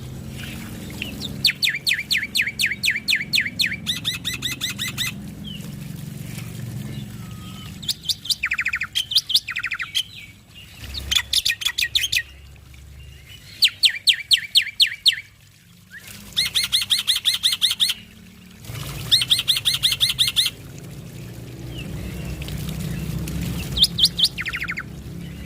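Male black-winged starling (jalak putih) singing: bursts of fast, rhythmic, repeated high notes, each run lasting one to two seconds, separated by short pauses and a few single calls.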